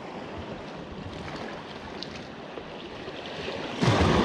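Large waves washing in, a steady rushing, with a sudden loud crash of water near the end.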